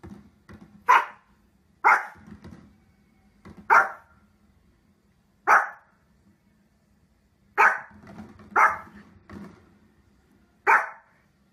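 A small long-haired dog barking: seven loud, sharp single barks, spaced irregularly about one to two seconds apart, with softer barks in between.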